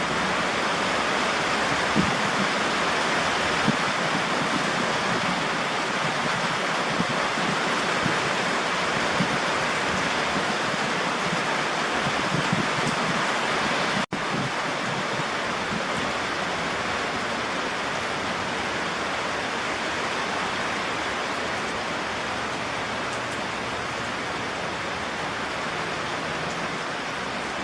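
Steady rain falling, with a few louder drops ticking now and then; the sound cuts out for an instant about halfway through.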